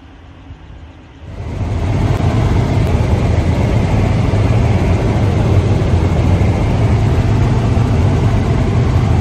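Helicopter engine and rotor noise, coming in suddenly about a second in and then loud and steady, heaviest in the low end.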